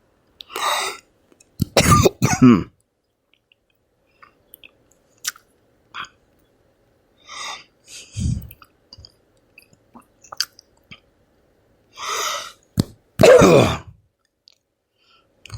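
A man clearing his throat and coughing several times, with small mouth clicks in between; the loudest clearing comes near the end.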